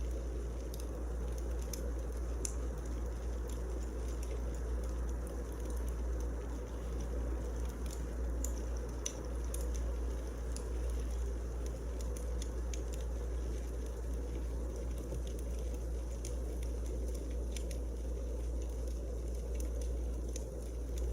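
Firewood burning in a fireplace: a steady low rumble with scattered sharp crackles and pops.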